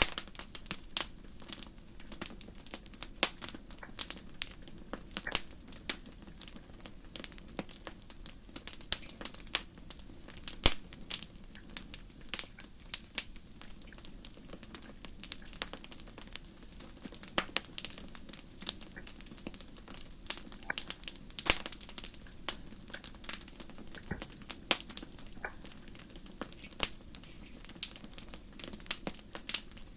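Wood fire crackling: irregular sharp pops and snaps, several a second, over a steady low rush of burning.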